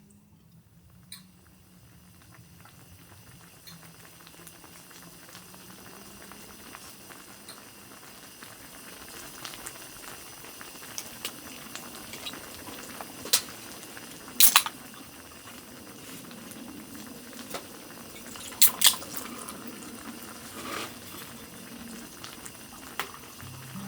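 Water heating toward the boil: a bubbling hiss that builds steadily louder, with a few sharp clicks and ticks from the heated vessel.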